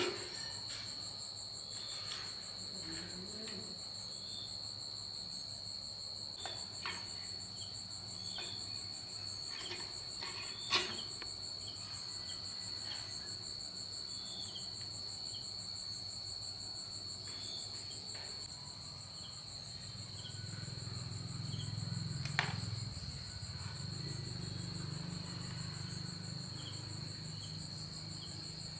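Insects, likely crickets, chirring in a steady high continuous trill, with a few sharp clicks or knocks scattered through and a low rumble swelling in the second half.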